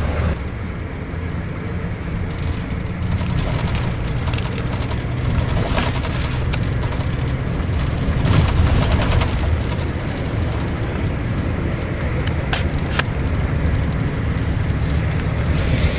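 Cabin noise of a Scania K410iB double-decker coach under way: a steady low engine drone with road and tyre noise. Two sharp clicks come about three-quarters of the way through.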